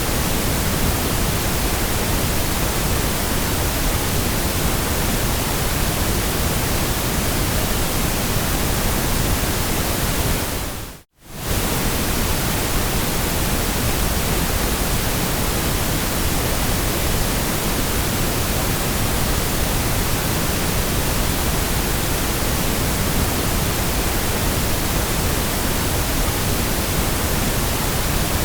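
Steady, even hiss of white noise with no changes in pitch or rhythm. About eleven seconds in it drops briefly to silence and comes straight back.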